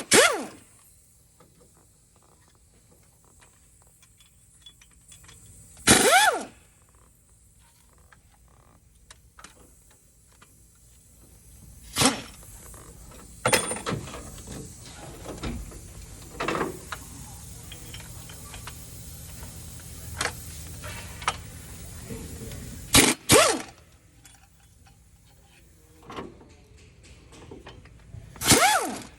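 Intermittent work on the engine with a hand-held power tool: several short bursts of a few tenths of a second, each with a whine that slides in pitch as the tool spins up and down. Small metallic clinks and taps fall between the bursts.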